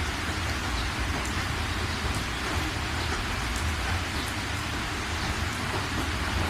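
Steady rain, with scattered drops ticking close by and a low rumble underneath.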